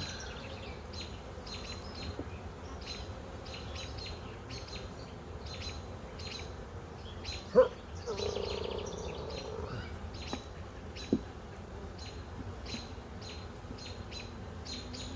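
Honey bees buzzing steadily around an open hive that the beekeeper believes is queenless. A high chirp repeats about twice a second over the hum, and a brief louder sound stands out about halfway through.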